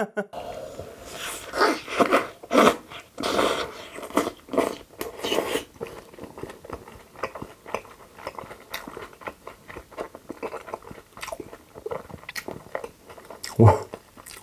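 Close-miked bites into a large stacked burger, followed by steady wet chewing and mouth smacking. The first few seconds are the loudest, and a short hum comes near the end.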